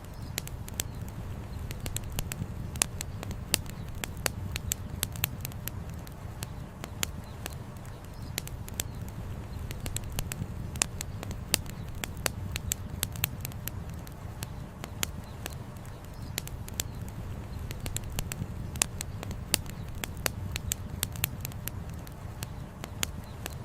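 Campfire wood burning with dense, irregular crackling and popping, several sharp snaps a second, over a steady low rumble.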